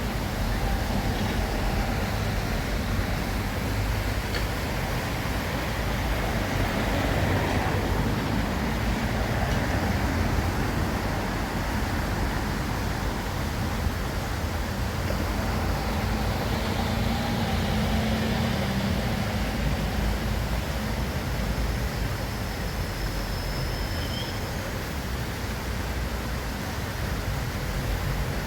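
Steady city street traffic noise: a continuous low rumble of passing cars, with one vehicle's engine hum rising briefly a little past halfway.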